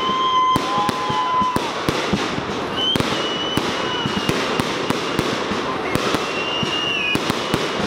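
Fireworks display going off: a dense run of bangs and crackles throughout, with a few thin whistles held for a second or so at a time.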